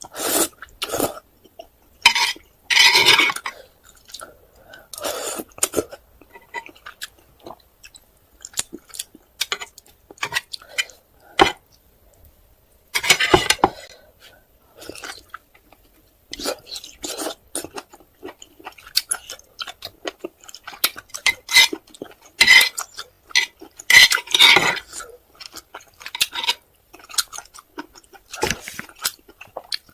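Close-miked eating of spicy stir-fried noodles with octopus: chewing, with utensils clinking against the dish. The sounds come in short, irregular bursts and clicks with quiet gaps between them.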